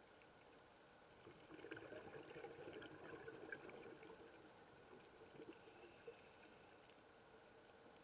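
Near silence: faint water noise, swelling slightly for about three seconds starting a second and a half in, over a steady low hum.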